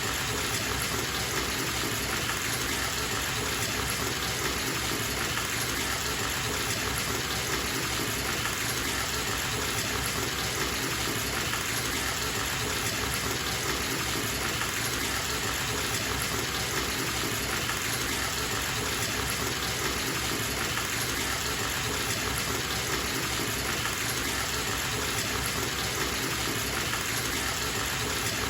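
Water running steadily from a tap into a bathtub as it fills, an even, unbroken rush.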